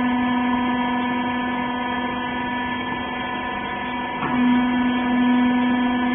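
Rag baler's hydraulic pump motor running with a steady hum, with a short knock about four seconds in.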